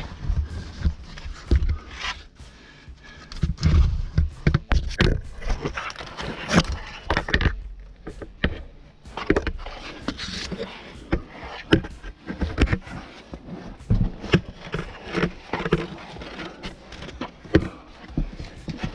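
Irregular scrapes, knocks and clicks of a caver's gear and body against rock while climbing out through a tight cave passage, with low thuds from the body-worn camera being bumped.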